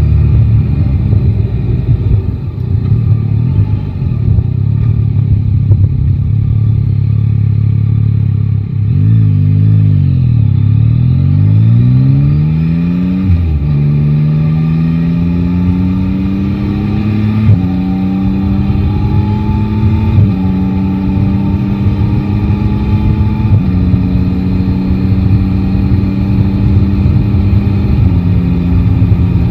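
Yamaha Tracer 9 GT motorcycle engine running at steady low revs, then pulling away. Its pitch climbs and drops back at upshifts about 13, 17 and 20 seconds in, and it then holds a steady cruising note, with wind and road noise.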